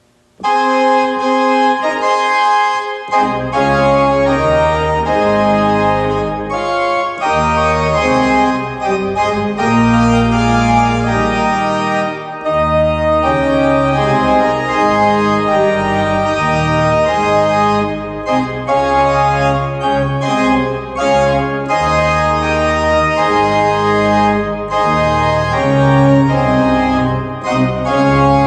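Organ music: sustained chords start about half a second in, and deep bass notes join about three seconds in, moving in long held steps.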